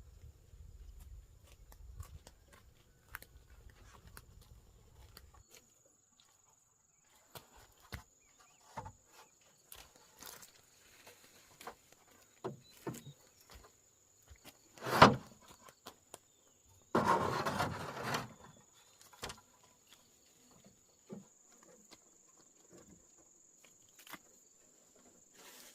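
Scattered knocks and rustles of hand construction work, with one loud sharp knock about fifteen seconds in and a noisy scraping rustle lasting about a second soon after. Under it runs a steady high insect drone.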